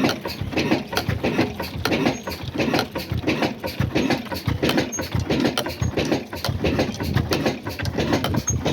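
Old stationary diesel engine running at a steady speed, with a rapid, even beat of knocks.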